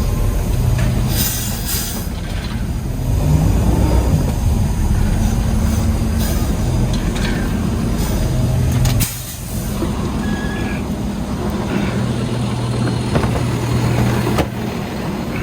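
Diesel engine of a Peterbilt 320 garbage truck running, heard from inside the cab, with a few short hisses of air and clunks over it.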